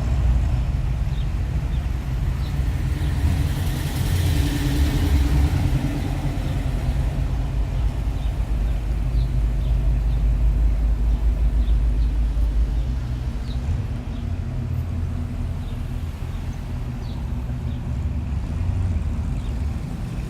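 Engines of cars cruising slowly past in a line, a steady low rumble that swells as vehicles go by, loudest a few seconds in and again around the middle.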